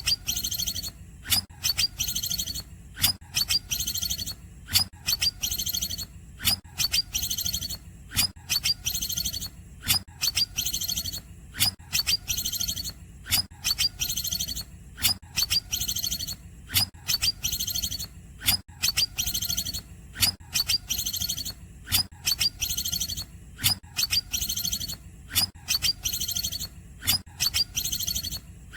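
Greater green leafbird (cucak ijo) singing its cungkokan-style song: a short, high-pitched phrase repeated about once a second, over a faint steady low hum.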